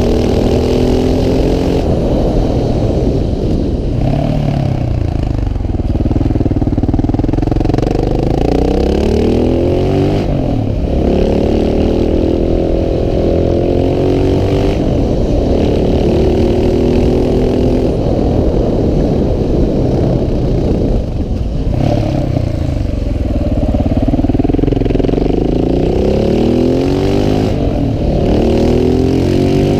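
KTM 690 SMC R's single-cylinder engine under way, its pitch climbing and dropping again and again as the rider accelerates, shifts and rolls off. The pitch falls low about four seconds in and again about two-thirds through, then climbs back.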